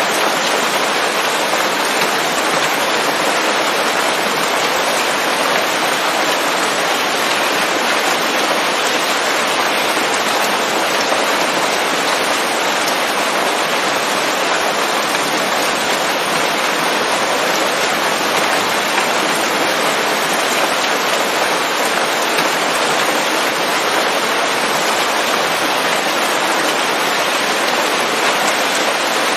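Steady, dense rain falling on leaves in a forest, an even hiss of many drops with no thunder.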